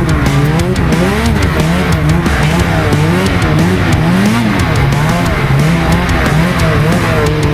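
Snowmobile engine running hard, its pitch rising and falling about twice a second as the throttle and load change.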